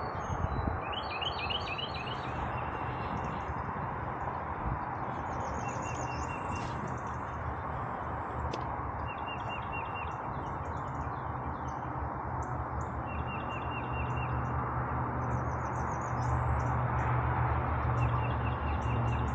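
Small birds chirping in repeated short series of quick notes over a steady rushing background. A low rumble swells during the last few seconds.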